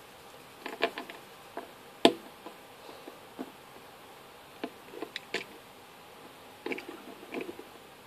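LEGO pieces being handled, giving irregular small plastic clicks and taps, the sharpest about two seconds in.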